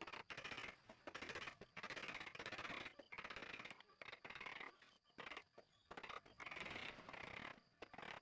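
Repeated scraping strokes of a hand tool working wood, roughly one a second with short pauses between them, each stroke a fine rapid rasping.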